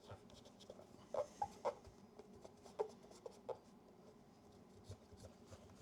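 Quiet rubbing and scattered small clicks and taps of hands cleaning and handling a metal camera body, with a few louder ticks clustered between about one and three and a half seconds in.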